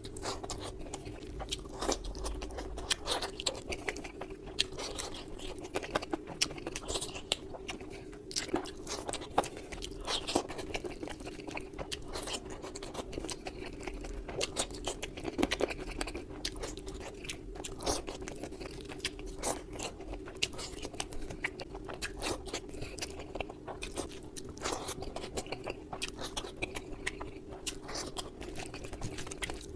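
Close-miked mukbang eating sounds of Indian rice curry and chicken, sped up to double speed: dense, irregular chewing and biting clicks over a steady low hum.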